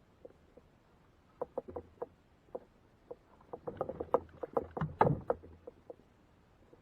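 Irregular knocks and taps on a fishing kayak: a few scattered ones at first, then a dense clatter for about two seconds in the middle, with the loudest knock about five seconds in.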